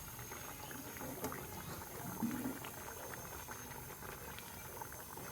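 Food sizzling and crackling in hot oil in a pan, a steady patter of small pops.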